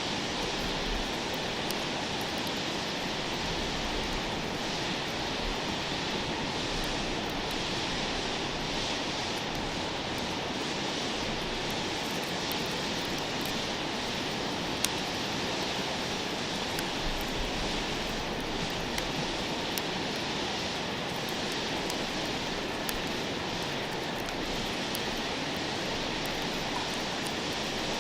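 A steady rushing noise, like running water or wind, with a wood campfire crackling now and then as a few sharp pops, the sharpest about halfway through.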